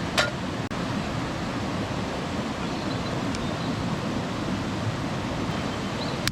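Mountain stream rushing with a steady, even sound, with a single sharp click just after the start.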